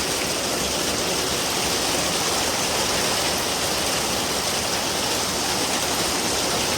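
Heavy rain pouring down steadily, an even hiss with no thunder claps.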